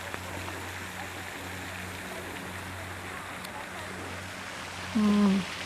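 Steady rush of running water over a low steady hum, with faint bird chirps. Near the end, a short pitched call or hum lasting under half a second stands out as the loudest sound.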